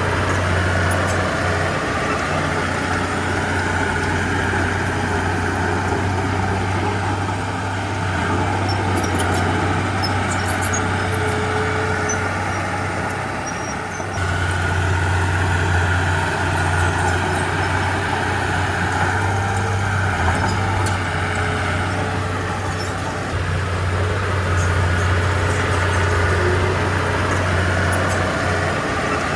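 Heavy diesel earthmoving machinery running. The deep engine drone swells and eases as the load changes, with a brief dip about halfway through.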